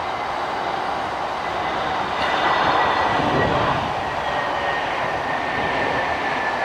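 Jet airliner engines: a steady rushing noise with a thin high whine that slowly falls in pitch, swelling a little about two to three seconds in.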